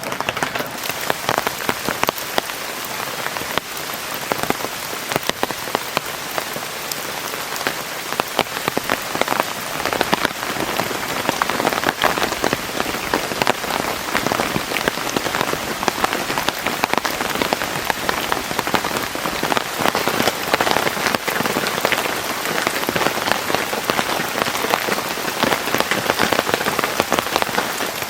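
Heavy rain falling steadily, a dense patter of individual drops striking a surface.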